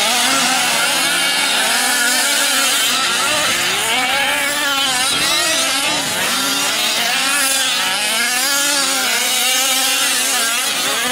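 Several 1/5-scale RC trucks' small two-stroke petrol engines running at once, their pitches rising and falling as the throttles are worked around the dirt track.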